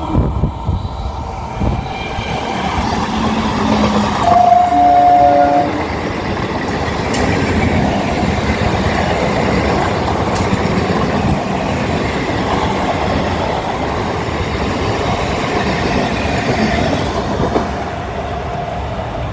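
Electric multiple-unit local train running fast on the rails, a steady rumble and rattle. Its horn sounds once for about a second and a half, about four seconds in.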